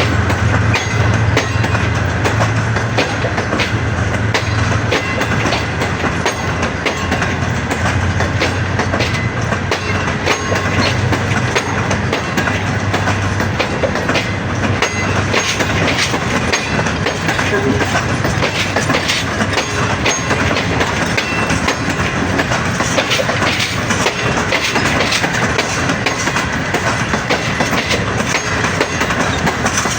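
A train passing close by, its wheels clattering steadily over the rail joints, with a low steady drone through the first half.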